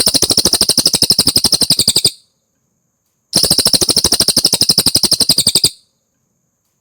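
Cililin song bird trilling: two long, high-pitched trills of rapid repeated notes, each lasting about two seconds, with a short pause between them.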